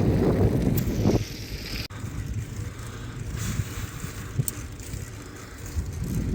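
Wind buffeting the microphone on a moving bicycle, heaviest in the first second and then easing, with a few light clicks and rattles from the bike.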